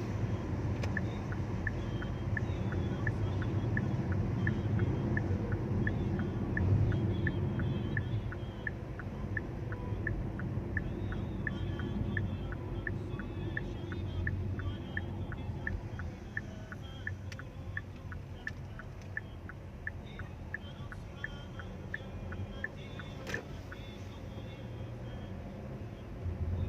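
Low vehicle rumble of street traffic, with a steady, evenly spaced ticking about two to three times a second through most of the stretch, stopping a few seconds before the end.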